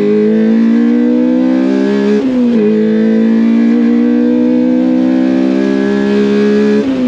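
Honda K20A2 four-cylinder engine in a Lotus Elise under hard acceleration. Its pitch climbs steadily and drops with a quick upshift about two seconds in, then climbs again to another upshift near the end.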